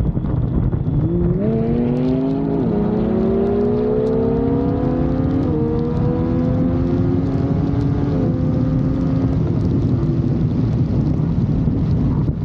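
Vehicle engine picking up speed over steady wind rush. Its pitch climbs, drops suddenly about two and a half seconds in like a gear change, then rises slowly again before fading out about three seconds before the end.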